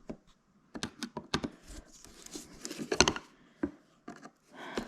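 Irregular clicks and knocks of tools and metal parts being handled while a dirt bike is taken apart. There is a cluster of clicks about a second in and a sharper knock about three seconds in.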